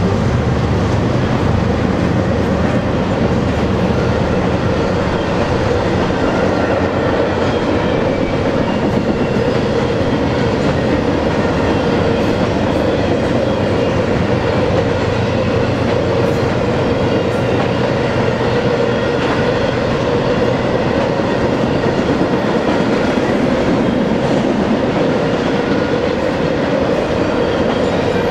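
Intermodal freight train of trailer-on-flatcar cars rolling past: a steady, unbroken noise of steel wheels on rail. Faint thin high-pitched tones come and go in the middle.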